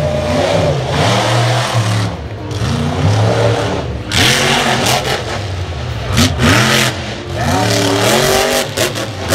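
Monster truck engine revving hard, its pitch climbing and dropping again several times, with loud rushes of noise in between.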